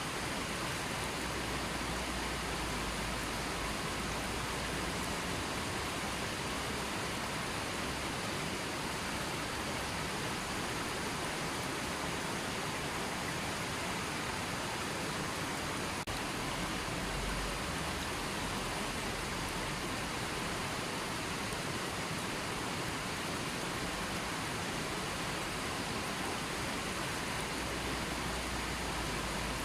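River water flowing over rocks, a steady rushing with no let-up.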